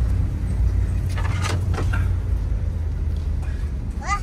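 Truck engine and drivetrain rumbling inside the cab while driving over rough ground, with a few knocks and rattles about a second in.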